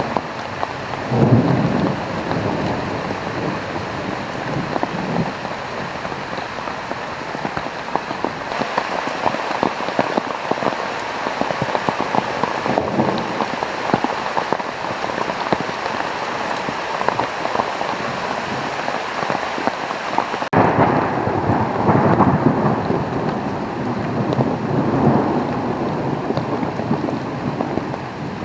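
Heavy rain pouring down steadily in a thunderstorm. Low rumbles of thunder come about a second in and again several times in the last third.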